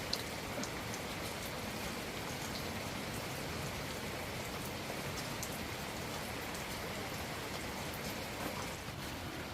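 Heavy rain falling steadily, with scattered single drops ticking now and then.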